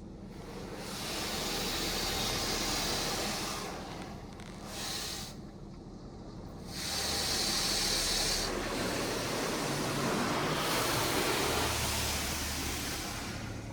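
LaserWash 360 touch-free car wash spraying spot-free rinse water over the car, heard from inside the cabin: a hiss of spray that swells and fades in several passes, with a lull about six seconds in and the loudest pass in the second half.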